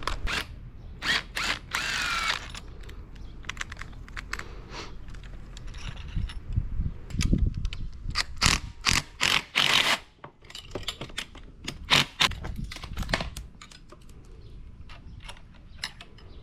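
Socket ratchet with an extension working the 6 mm handlebar clamp bolts on a dirt bike, with irregular clicks and clinks of metal tools and parts. There is a brief squeak about two seconds in.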